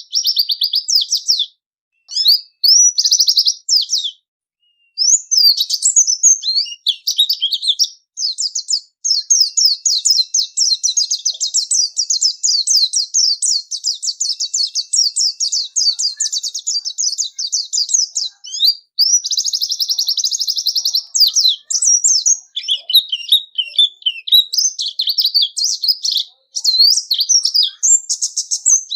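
White-eye (pleci) singing a clear, high twittering song of quick notes. Its phrases are broken by short pauses in the first several seconds, then run into a long unbroken stretch of fast notes.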